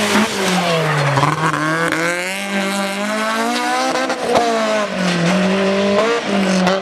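Rally car engine running hard at high revs, its note dipping and climbing several times as the revs change.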